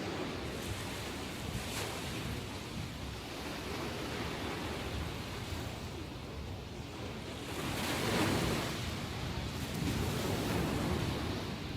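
Ocean waves breaking and washing on the shore in a rough sea after a typhoon, with a louder wave surging about two-thirds of the way through. Wind adds a steady rush on the microphone.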